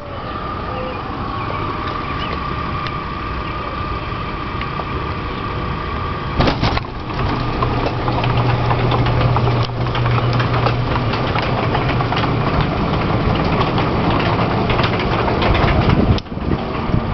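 Garage door opener running as the door travels along its track, a steady mechanical drone. A louder low hum comes in about six seconds in and fades again about five seconds later.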